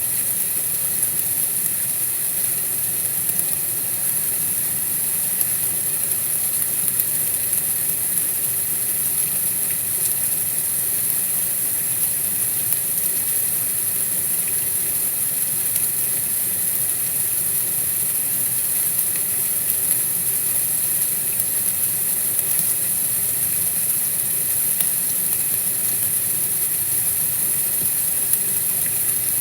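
Steady white-noise hiss, even in level, brightest high in the treble.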